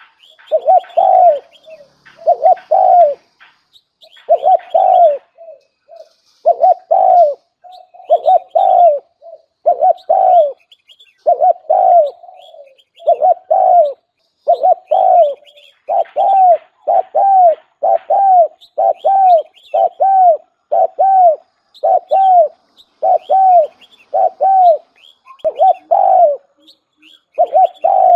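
Spotted dove (cu gáy) cooing over and over, about one note a second, the decoy call used to lure wild doves into a trap.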